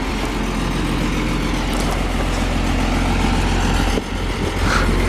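An engine idling steadily, with a short dip in level about four seconds in.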